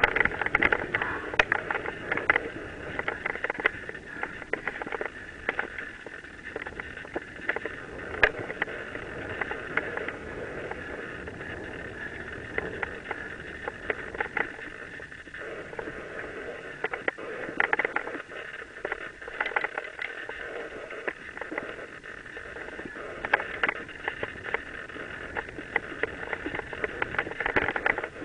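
Mountain bike descending a rough dirt trail: steady tyre and rattle noise with frequent sharp knocks from bumps.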